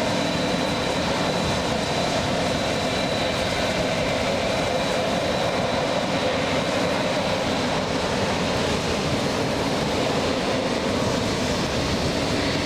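Jet airliner engines running, a steady noise with a thin high whine over it.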